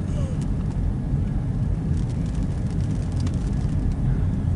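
A car driving, heard from inside the cabin: a steady low rumble of engine and tyres, with a few faint ticks about halfway through.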